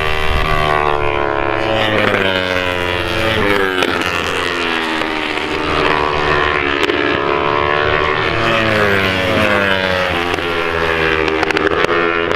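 Racing motorcycle engines revving hard as several bikes pass, their pitch climbing and then dropping sharply again and again with the gear changes.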